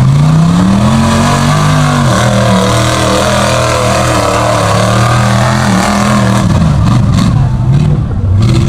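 Mud-bogging pickup truck engine revving loudly, its pitch climbing in the first second and holding high with a wavering note, then dropping and surging up and down over the last couple of seconds.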